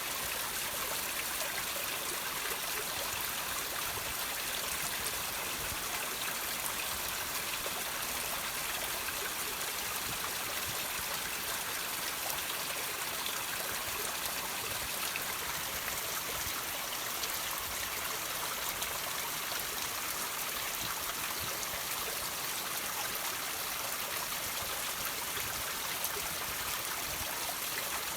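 Water trickling and dripping over rocks: a steady, even hiss of running water flecked with small drip ticks.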